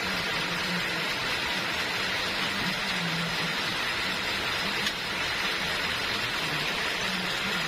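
Sawmill saw cutting a teak log: a steady hissing noise over a low, wavering hum, with one brief click about five seconds in.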